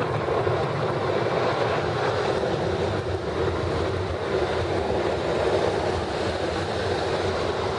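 Ryko brush car wash spraying coloured soap and water against the car, a steady rushing heard from inside the car.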